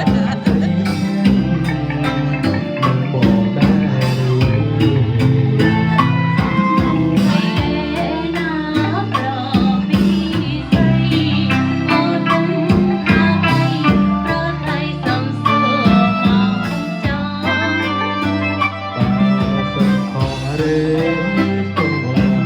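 A band plays a Khmer pop song with guitar, bass and percussion, with singing at times.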